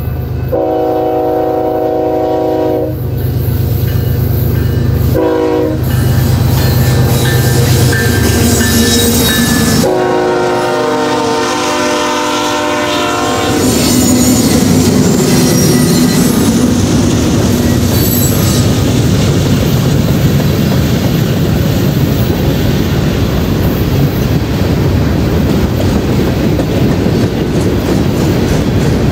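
Freight train's locomotive air horn sounding a chord of several notes: a long blast, a short one, then a longer one, over the low rumble of the approaching diesel locomotives. The train then rolls past with steady rail noise and wheel clatter from the cars.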